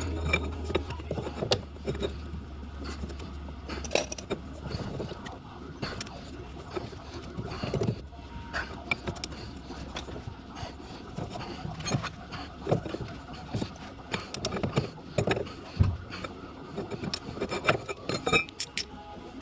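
Irregular metallic clinks, knocks and scrapes of tools and metal parts being handled while a car is stripped. A low hum fades out over the first few seconds.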